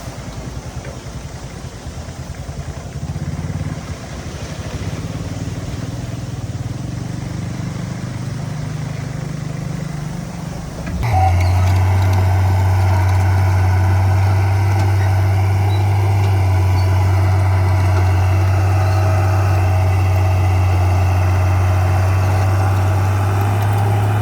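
Diesel engine of heavy earthmoving equipment running, with a fast low chugging pulse. About eleven seconds in, the sound changes abruptly to a louder, steady low drone with a higher whine on top.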